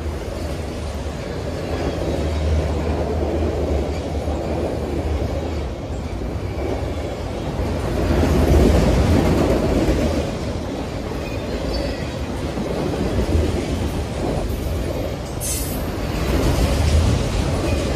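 Autorack freight cars of a CSX train rolling past on steel wheels: a continuous rumble that swells and eases as the cars go by, with a brief high screech about fifteen seconds in.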